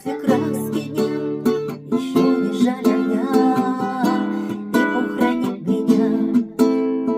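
Guitar strummed in a steady rhythm, playing the closing instrumental bars of the song.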